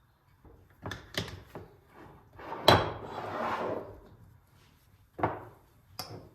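A kitchen drawer being handled: a few clicks and knocks, one loud knock followed by about a second of sliding noise, then another thud and a click near the end.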